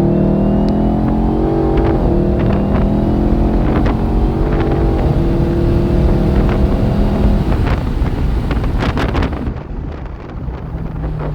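Car engine heard from inside the cabin, pulling under throttle with its pitch climbing and stepping a few times as it accelerates around the course, then easing off about ten seconds in as the throttle is lifted; a few sharp knocks come just before.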